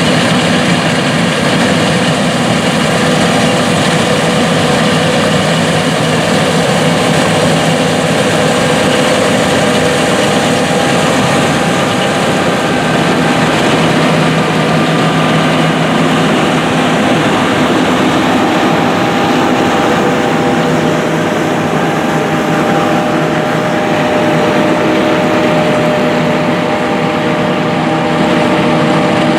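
Big John Deere farm machines working in a field: heavy diesel engines running steadily under load, with several engine tones that drift in pitch partway through as the machines move.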